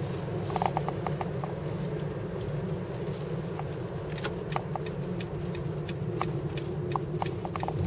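Steady low road and engine rumble inside a moving car's cabin, with scattered light clicks and ticks on top.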